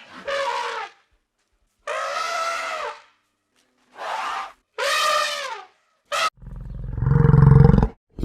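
A big cat calling: four short calls, each about a second long. About six seconds in, a loud, deep roar begins and carries on.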